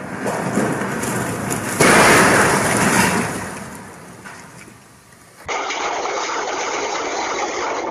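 A ferry's hull crashing into and grinding through a concrete quay: a loud crunch about two seconds in that dies away over a few seconds. Then, after a cut, the engine of a tracked self-propelled gun running steadily as it drives off a trailer, smoking.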